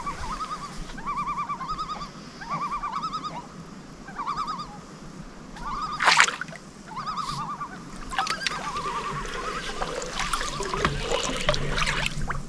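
A bird gives a wavering call over and over, about one short phrase a second. A sharp splash of water comes about six seconds in, and irregular splashing follows in the second half.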